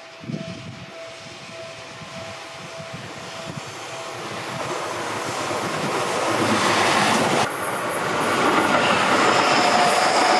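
Seibu Railway electric train running on the line, its rumble and rail clatter growing steadily louder as it comes closer. There is a brief drop about seven seconds in, then it grows louder again.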